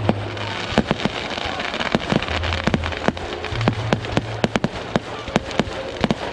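Fireworks display: a rapid, irregular string of sharp bangs and pops over a steady crackle.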